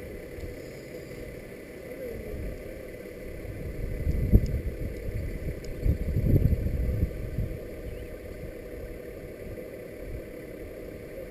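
A bucket truck's engine running steadily, a low drone with a faint steady whine over it. Louder low rumbles come about four seconds in and again around six to seven seconds in.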